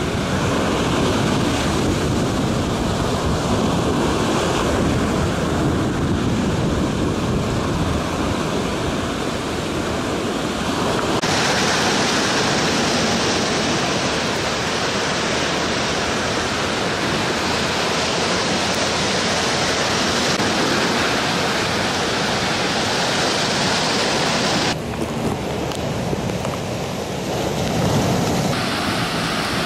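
Rough sea: waves surging and breaking with strong wind blowing across the microphone, a steady loud rush. The character of the noise changes abruptly a few times, as between separate recordings.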